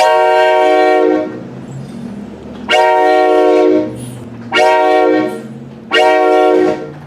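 Train horn sounding four loud blasts, long, long, short, long: the standard grade-crossing signal. A lower hum continues between the blasts.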